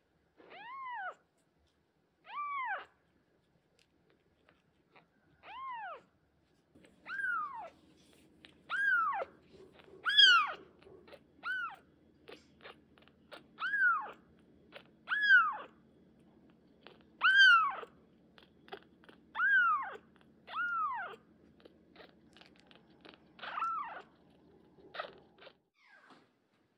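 Very young kitten mewing over and over: about fourteen short, high cries, each rising then falling in pitch, one to two seconds apart, louder after the first few.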